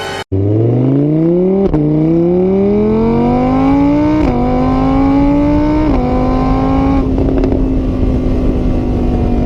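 Car engine accelerating through the gears: its pitch climbs, drops sharply at each upshift about two, four and six seconds in, then holds steady at cruising speed.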